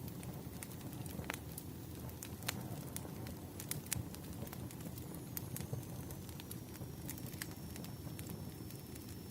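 Wood fire crackling: a steady low rumble of burning logs with frequent sharp pops and snaps.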